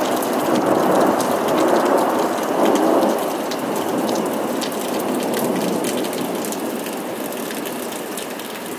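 Heavy rain falling steadily. A low rumble of thunder dies away over the first few seconds, and sharp raindrops tick close by.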